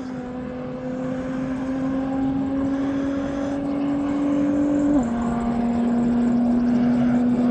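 A race car's engine pulls hard under full acceleration, its note climbing steadily. About five seconds in, an upshift drops the pitch, and the note starts climbing again as the car gets louder.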